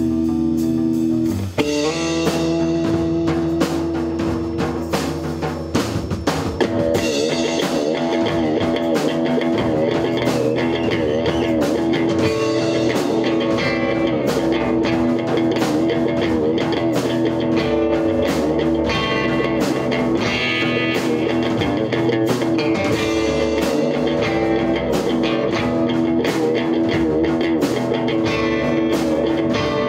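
Rock band playing electric guitar, bass and drum kit: a held guitar chord cuts off about a second and a half in, then the full band comes in with a steady drum beat.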